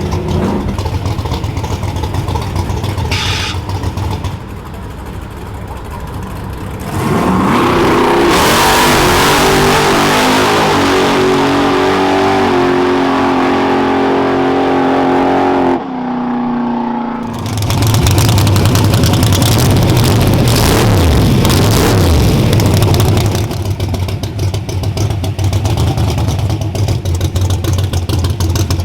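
High-performance engine at full throttle, its pitch climbing steadily for about eight seconds, then cut off abruptly about sixteen seconds in and winding down. A loud, deep engine rumble follows, with revs falling.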